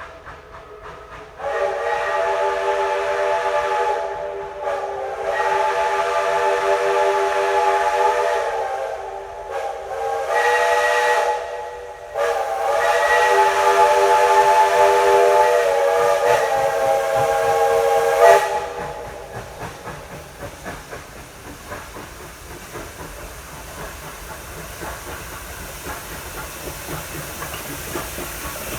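Steam locomotive No. 190's original White Pass chime whistle sounding a chord in a series of long blasts, the last the longest. After the last blast comes a steady hiss of escaping steam.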